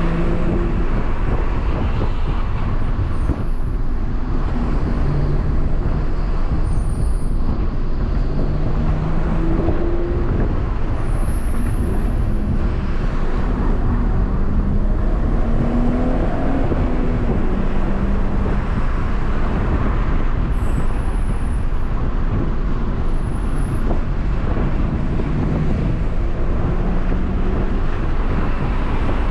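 BMW M140i's turbocharged 3.0-litre straight-six running hard, heard from inside the cabin, its pitch rising and falling repeatedly as the revs change, over a steady rumble of road and tyre noise.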